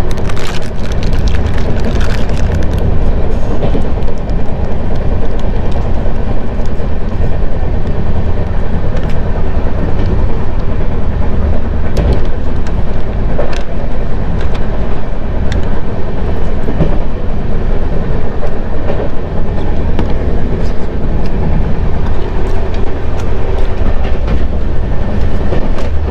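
Steady running rumble of a double-decker express train heard from inside the coach, with occasional short clicks.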